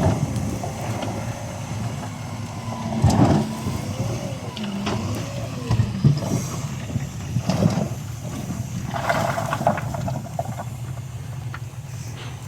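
Heavy diesel earthmoving machinery working: a steady engine drone with wavering metallic squeals and repeated sharp clanks, strongest around three, six, seven and a half, and nine to ten seconds in.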